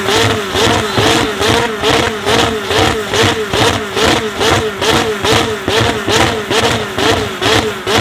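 Sports car engine revved in quick, even blips, about two or three a second, its pitch rising and falling with each one.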